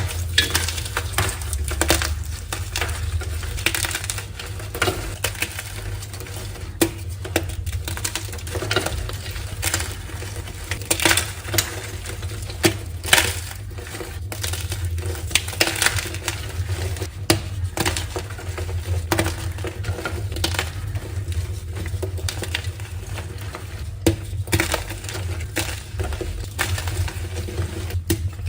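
Blocks of dyed gym chalk being crushed: a dense, irregular run of crisp crunches and crumbling crackles, over a steady low hum.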